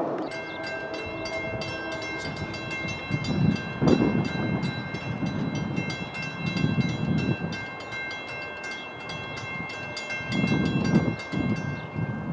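A train passing with a bell ringing rapidly and steadily, while the low rumble of the train swells and fades several times.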